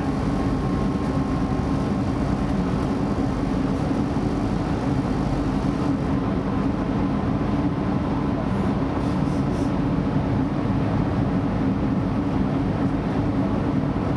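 Steady running noise inside a PESA Link class 633 diesel multiple unit under way: a constant low drone from the drivetrain mixed with the rumble of the wheels on the rails.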